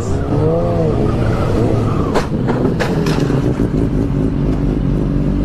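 Car engine revving hard, its pitch repeatedly rising and falling, with two sharp cracks about two and three seconds in.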